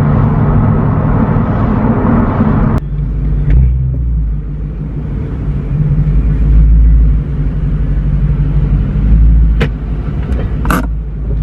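BMW M3 V8 with a valved aftermarket exhaust, cruising, heard from inside the cabin as a steady low rumble with no drone. About three seconds in the higher road and wind noise drops away, leaving a deep low hum. A couple of short sharp clicks come near the end.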